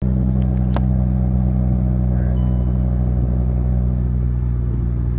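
Volkswagen Rabbit engine idling steadily through a straight-piped exhaust, with a brief click under a second in.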